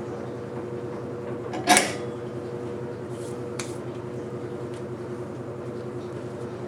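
A steady machine hum with one loud metallic clank a little under two seconds in, followed by a couple of lighter knocks.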